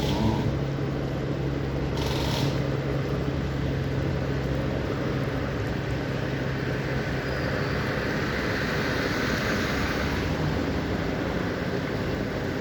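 A steady low engine rumble with a steady hum that fades out about halfway through, while a hissing noise swells in the second half.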